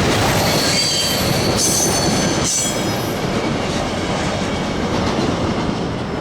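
Freight cars of a passing train rolling by, with high-pitched wheel squeal in the first half.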